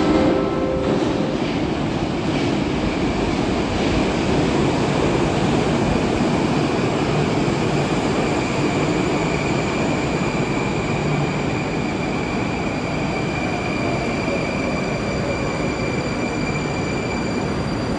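Moscow metro train running at the station platform: a steady, loud rolling noise of wheels on rail, with a thin high whine held through most of it.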